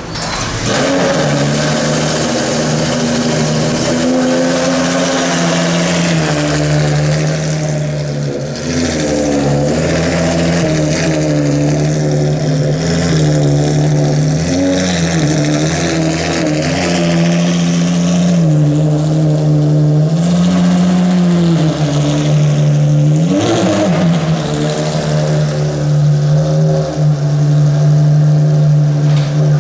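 Ferrari FXX K's V12 engine running loud at a steady fast idle, its pitch sagging and recovering a few times in the second half.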